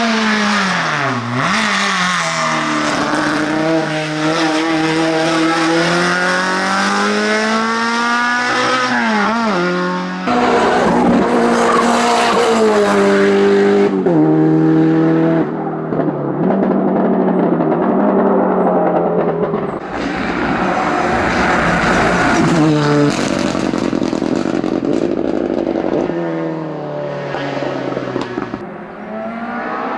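Race car engines at full throttle on a hillclimb: several cars in turn, each note climbing and dropping through gear changes as they pass.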